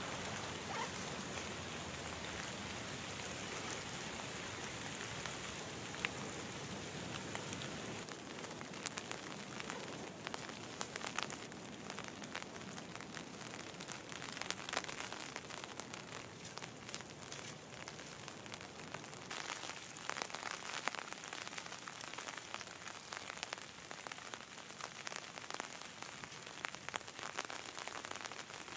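Steady rain falling on leaf litter and trees, with many separate drops ticking through it.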